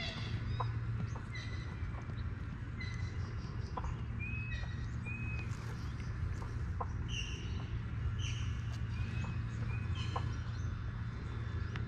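Small birds chirping: short whistled notes and chirps, some in quick pairs, over a steady low background hum, with a few faint ticks.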